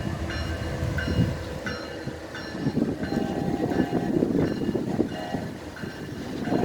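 BNSF freight grain train rolling by, its cars giving a steady heavy rumble. A short bright ding repeats about every 0.7 seconds throughout, and brief steady tones come in around the middle.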